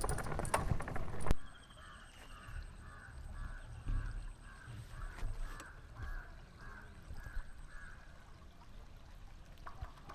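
A loud rustle or wind on the microphone that cuts off about a second in, then a bird calling over and over, about two short calls a second, for several seconds.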